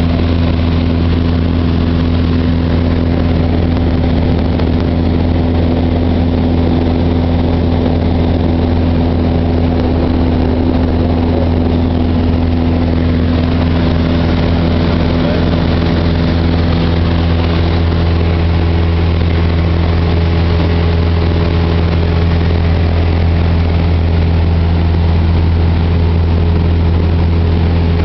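Cessna 172's piston engine and propeller droning steadily in flight, a constant low hum with several steady tones above it and no change in pitch.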